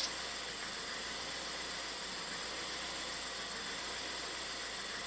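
Ford 1.6 L EcoBoost four-cylinder engine idling, heard as a steady, even hiss with a brief click right at the start. Its closed-loop fueling is swinging up and down at idle, which the mechanic puts down to an overreacting air-fuel ratio sensor.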